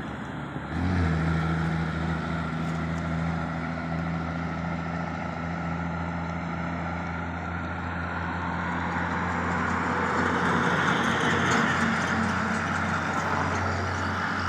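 Motor vehicle engine running at a steady speed, with a hiss of road or wind noise that grows louder about ten seconds in.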